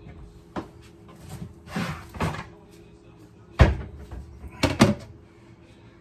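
A few knocks and bumps of hard objects being handled and set down on a counter, the loudest about three and a half seconds in and a quick double knock near the end.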